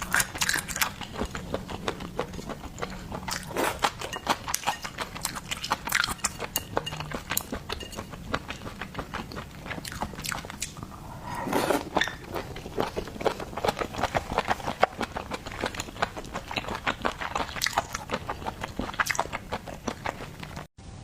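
Close-miked eating sounds: biting and chewing, with a dense run of sharp mouth clicks. The sound breaks off for an instant near the end.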